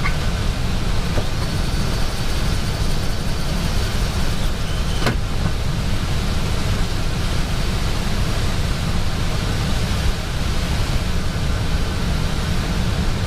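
Steady cockpit noise of an Airbus A320 on approach: an even rush of airflow and engine noise, heaviest in the low end, with one brief click about five seconds in.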